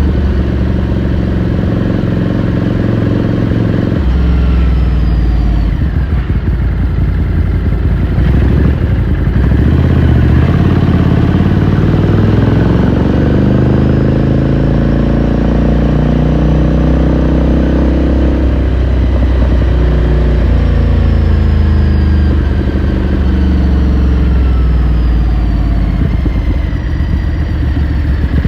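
Ducati Scrambler Sixty2's air-cooled 399 cc L-twin running under way, heard from the rider's seat. The engine note rises and falls several times as the bike accelerates, shifts and eases off.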